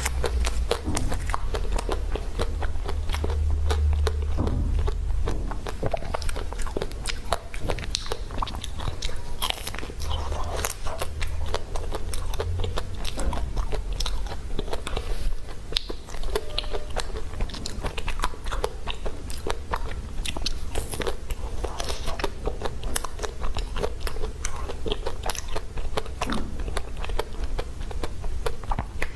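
Close-miked biting and chewing of a chocolate-coated ice cream bar: the chocolate shell cracks and crunches in many quick, irregular snaps, with wet chewing between bites.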